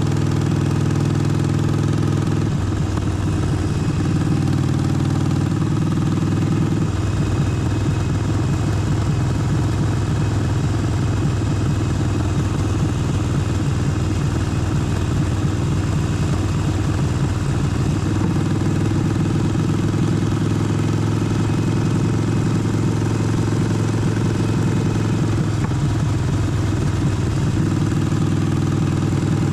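Harley-Davidson Forty-Eight's air-cooled V-twin engine running steadily, its note changing several times.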